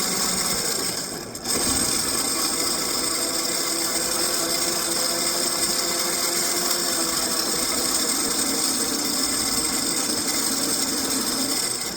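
Electric bike motor whirring steadily while riding, with a brief drop about a second in.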